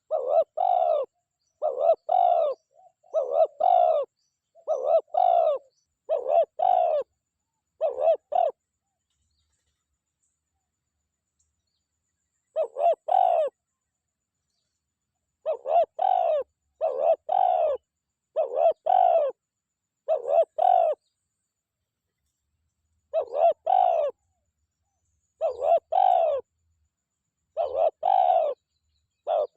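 Spotted dove cooing close by: a long series of short, low coos, often in pairs, pausing for about four seconds midway before starting again. This is a decoy dove's call, used to lure a wild male spotted dove.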